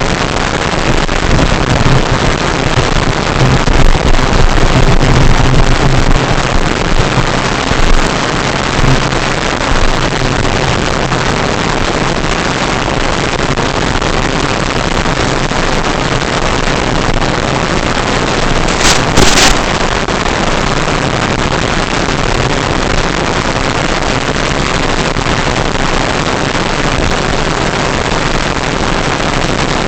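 BlitzRCworks Cessna 182 electric RC plane in flight: a steady rush of wind and propeller noise. A low motor hum is stronger over the first ten seconds or so, and a brief louder gust comes about two-thirds of the way through.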